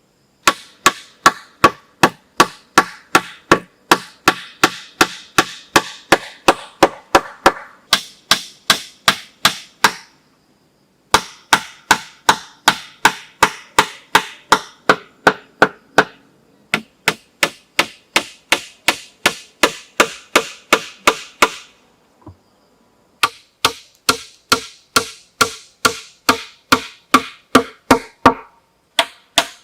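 Wood being struck repeatedly with a tool, about two to three sharp blows a second, each with a short ringing tone, in runs of several seconds broken by brief pauses.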